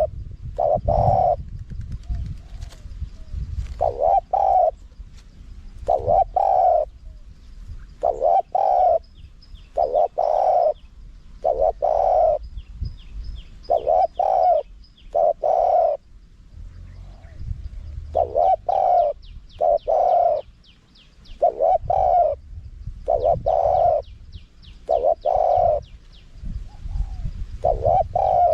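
Spotted dove cooing: short phrases of deep coos repeated about every two seconds.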